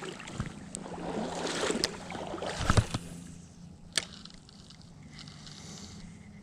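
River water splashing and sloshing around a wader's legs, building to a heavy slosh between two and three seconds in, then a single sharp click about four seconds in.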